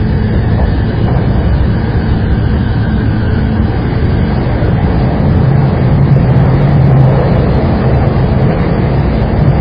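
Saikyo Line commuter rapid electric train running along the line: a steady rumble with a low hum that swells about halfway through.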